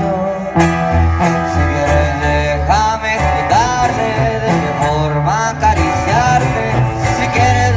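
Live band music during a soundcheck: a song played with plucked guitars over a deep, sustained bass line, with a gliding melody on top.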